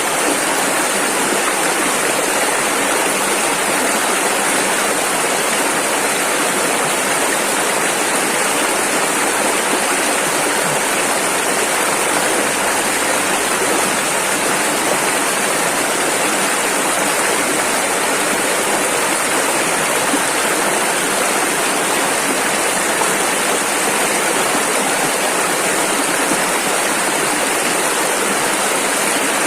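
A rushing river: fast water over rapids making a steady, loud, unbroken hiss.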